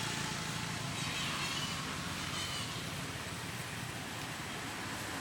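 Baby monkey giving two short, high squeaky cries, about a second in and again just after two seconds, over a steady background rumble.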